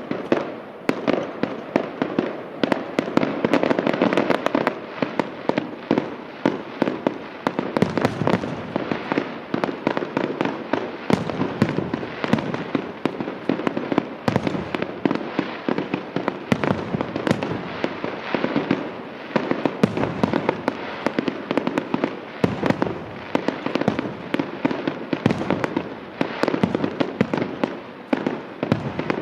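Fireworks display: a dense, continuous barrage of booming shell bursts and crackling, many bangs a second with no pause.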